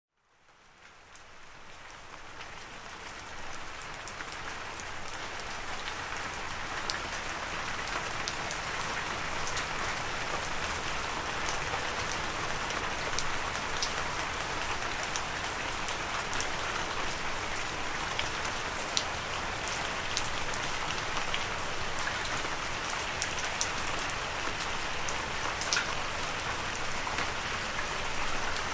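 Steady rain falling, an even hiss with many scattered sharp drop ticks; it fades in over the first few seconds and then holds steady.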